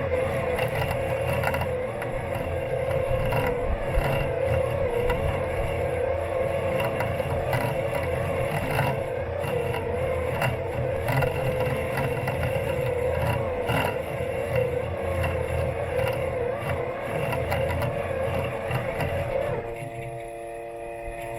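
Robot lawn mower's electric motors running with a steady whine over a rough rumble and scattered clicks, heard from a camera taped to the mower's body. Shortly before the end the rumble drops and the whine settles into a steadier set of tones.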